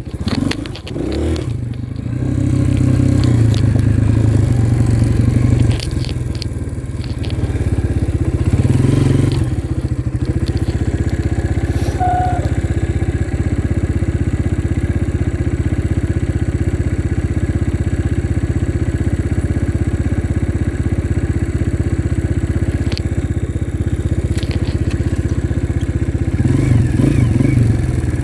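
Dirt bike engine running under way, revving up in swells near the start, about nine seconds in and near the end, with steadier running in between.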